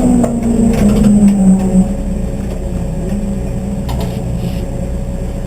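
Car engine running, its note falling in pitch over the first two seconds, then holding steady.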